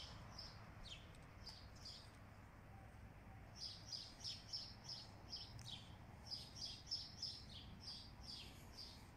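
Small birds chirping: short, high chirps, a few at first, then a quick run of them from about three and a half seconds in, over a faint low background hum.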